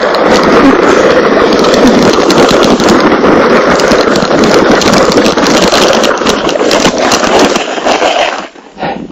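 Plastic hip sled scraping fast over packed snow: a loud, dense crackling rasp that drops off sharply about eight seconds in.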